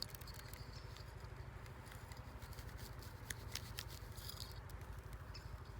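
Small scattered clicks and rustles of twigs and leaf litter on the forest floor, over a steady low rumble.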